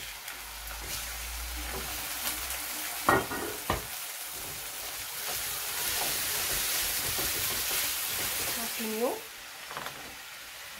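Minced chicken and chopped onion sizzling in hot oil in a frying pan, stirred with a wooden spoon. There are a couple of knocks about three seconds in. The sizzle swells and then drops off sharply about nine seconds in.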